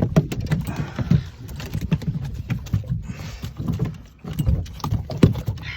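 A freshly caught fish flapping and thumping on the floor of an aluminium dinghy: a rapid, irregular run of knocks and taps.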